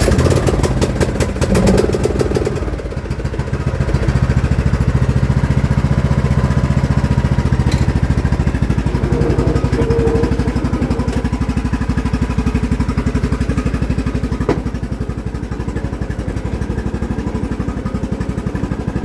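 Poulan Pro riding mower's 21 hp single-cylinder engine running steadily just after a cold start. It picks up speed and gets louder about four seconds in.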